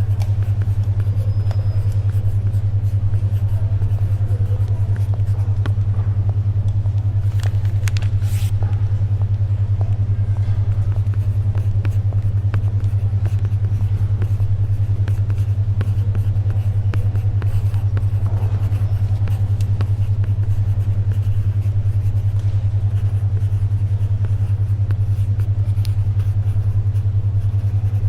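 Steady low hum of a 10.2 Hz alpha brainwave tone, with a fast even pulse, over faint library ambience. A brief rustle comes about seven to eight seconds in.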